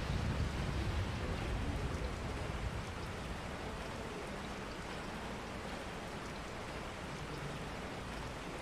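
Steady rain falling, an even hiss of drops, with a low rumble under it over the first three seconds or so.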